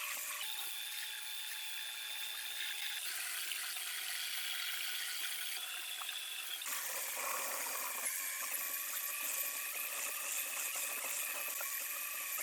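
Electric power tool motor running with a steady high whine, in short clips that change abruptly about half a second, three and seven seconds in.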